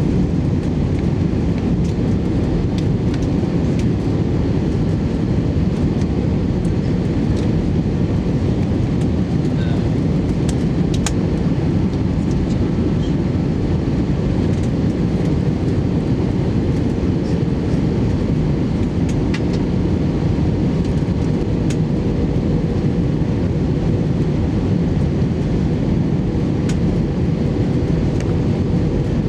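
Airbus A320 cabin noise on approach to land: a steady roar of engines and rushing air, heavy in the low end, with a faint steady hum above it and a few small scattered clicks.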